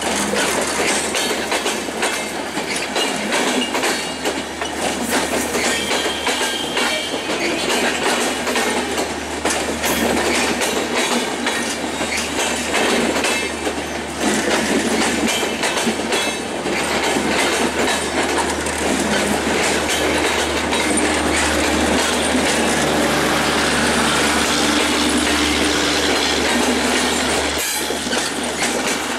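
Passenger coaches of an intercity express train rolling past close by: a continuous, loud clatter of steel wheels over the rail joints.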